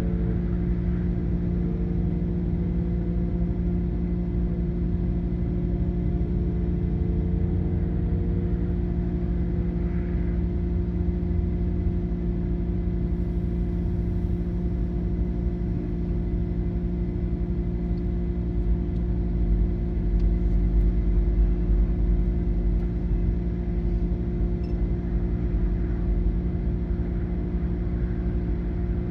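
Car engine running at a steady speed with low road and wind rumble.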